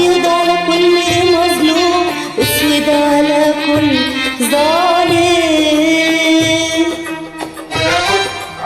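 A woman singing an Arabic song in long, ornamented held notes with sliding pitch, over Middle Eastern instrumental accompaniment, in a few phrases with short breaks.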